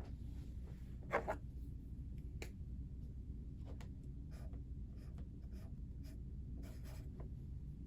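Writing on paper: soft intermittent pen scratches and light taps, one a little louder about a second in, over a low steady room hum.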